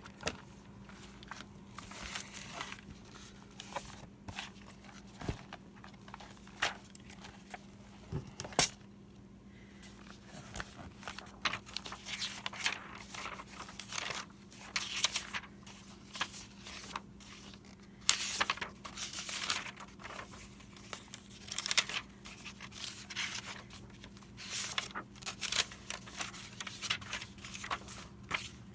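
Paper being handled at a craft table: irregular bursts of rustling, crinkling and tearing, with a sharp click about a third of the way through.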